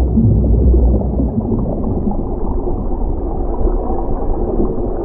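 Underwater ambience: a steady, muffled low rumble with a watery churning, almost all of it deep in pitch and a little stronger in the first second.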